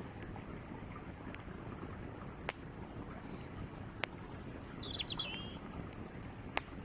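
Wood campfire crackling with scattered sharp pops, the loudest about two and a half seconds in and near the end, over a steady rush of creek water. A small bird gives a quick high twittering call around four to five seconds in.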